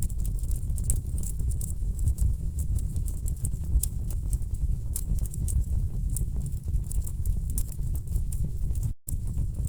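Wood fire burning in a fireplace: logs crackling with many sharp, irregular pops over a steady low rumble. The sound cuts out for a split second near the end.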